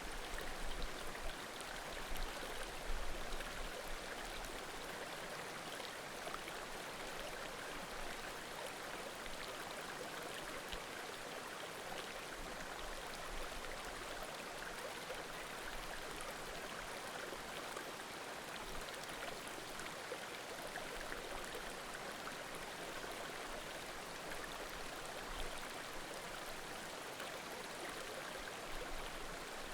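Small mountain creek babbling steadily, with the faint pops and crackles of a wood bonfire, a cluster of them in the first few seconds.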